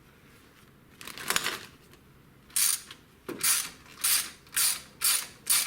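Ratchet wrench backing out an exhaust header bolt: a metallic clink a little over a second in, then repeated clicking strokes of the ratchet, about two a second, from past two seconds in.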